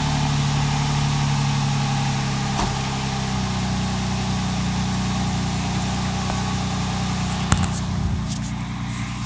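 Toyota 4Runner's 4.0 V6 idling steadily through a Borla cat-back dual exhaust, with a sharp click about seven and a half seconds in.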